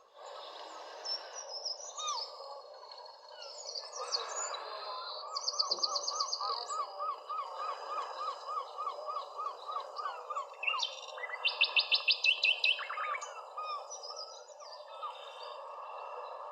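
Wild birds singing and calling. One bird repeats a chirp about three times a second for several seconds, and the loudest sounds are two rapid high trills, the second near the end. A steady background hiss sits under the birds.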